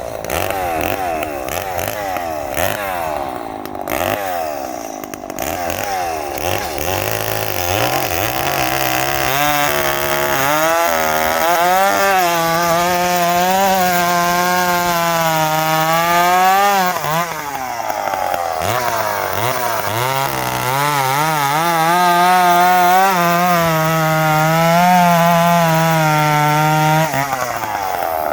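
A two-stroke chainsaw cutting through dry white oak. The engine's pitch wavers and sags as it loads up in the cut, with a brief drop in revs about two-thirds of the way through before it pulls back into the cut.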